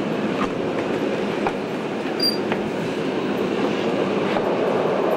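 Interior running noise of the Blauer Blitz, a 1950s Austrian diesel railcar train, under way: a steady rumble of wheels on rail with faint, irregular clicks from the track and one brief high squeak a little past two seconds in.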